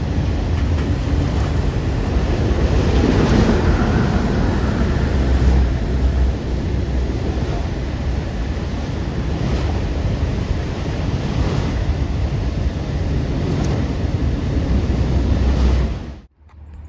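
Steady rumbling roar of a train passing at speed, with wind buffeting the microphone; the sound cuts off abruptly near the end.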